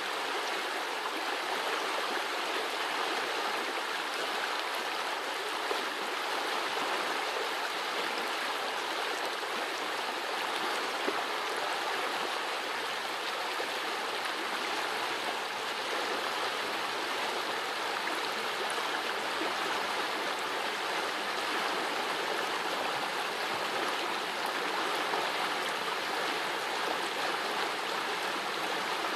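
Small forest brook running and babbling steadily over its bed.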